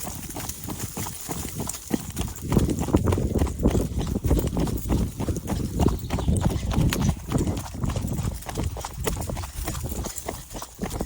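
Running footsteps in a steady rhythm, with a low rumble over the microphone; both grow louder about two and a half seconds in.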